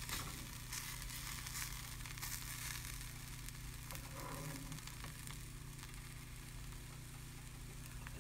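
Masala stuffing for bitter gourds frying faintly in a small nonstick pan while it is stirred with a slotted spatula, a soft steady sizzle with a few light scrapes. A steady low hum runs underneath.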